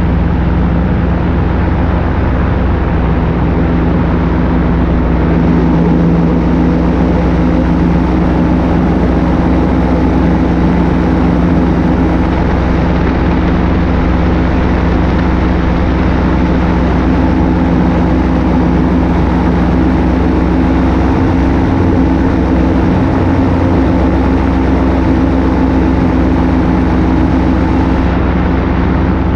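Paramotor engine and propeller running steadily at cruise power, a loud constant drone with wind rushing over the pilot's microphone.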